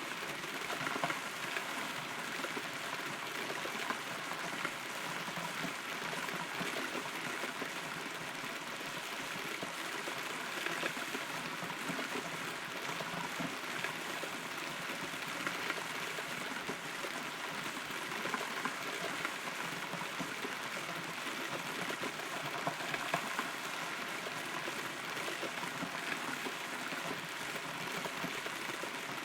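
Steady rain heard from inside a hollow rotten tree trunk: a dense patter with scattered louder drops.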